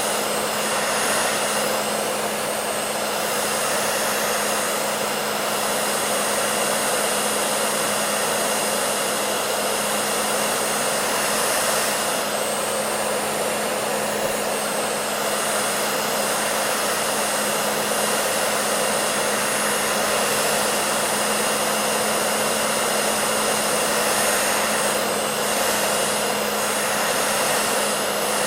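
Hair dryer running continuously: a steady rushing of air over a constant motor hum, unchanging throughout.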